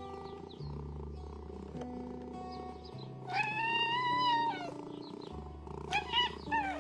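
Cartoon cat meowing over background music: one long meow about three seconds in, then a few short wavering mews near the end, while the music's steady bass notes carry on underneath.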